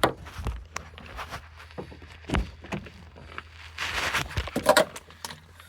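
Scattered knocks, clicks and rustles of someone handling things inside a car while cleaning it, over a faint steady low hum.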